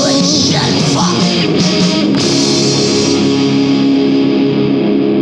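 Rock song with electric guitar: a last sung phrase in the first second or so, then a guitar chord held and sustained as the song closes.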